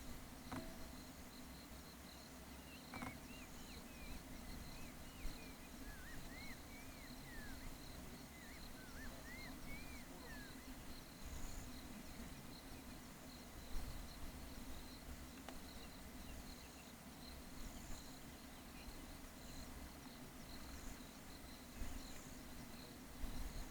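A bird calling a quick series of short, arched whistled notes for several seconds, then falling silent, over a steady high insect trill.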